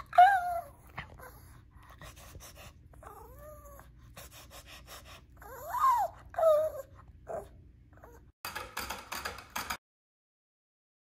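Shih Tzu whining and 'talking' for treats: four whiny yips that rise and fall in pitch, the loudest at the very start and two more close together about six seconds in. Near the end comes about a second and a half of crackly crunching.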